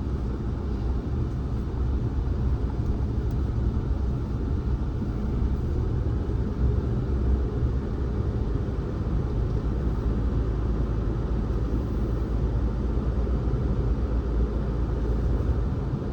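Car being driven on the road: a steady low rumble of engine and tyre noise.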